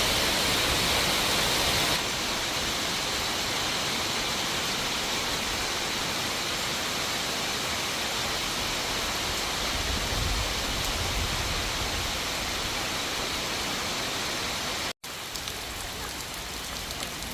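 Heavy rain pouring steadily as a dense hiss, with a brief low rumble about ten seconds in. Near the end the sound cuts out for an instant and returns as slightly lighter rain with scattered drip ticks.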